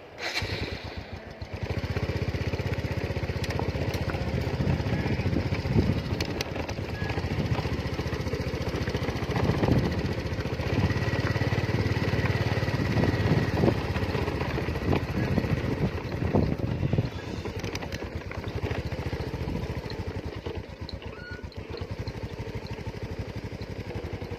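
A small engine running steadily, with a fast, even low pulsing. It starts just after the beginning, gets louder about two seconds in, and is a little quieter in the last several seconds.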